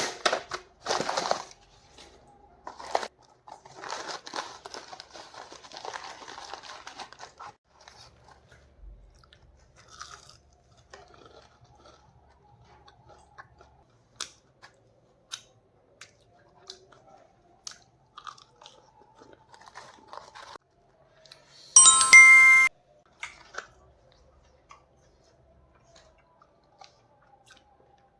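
Crunching bites into crispy fried chicken fingers, then steady chewing with small mouth clicks. Late on, a brief loud ringing tone cuts in.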